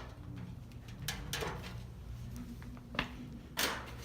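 An aluminium or wooden ladder being shifted, giving several sharp knocks and clacks. Under them runs the steady low hum of a Hunter Original ceiling fan running on high.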